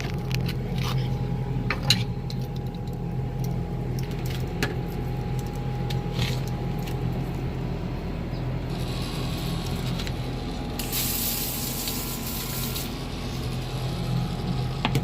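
Expandable garden hose spraying water: a hiss comes on about nine seconds in, is loudest for about two seconds, then cuts off. A steady low hum runs underneath, with a few clicks before the spray.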